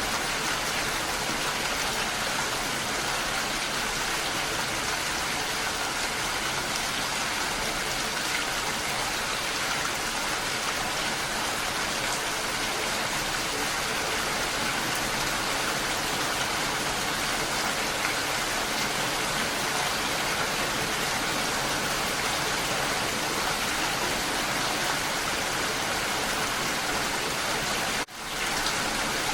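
Steady rain falling, an even dense hiss of drops, cutting out for a split second near the end.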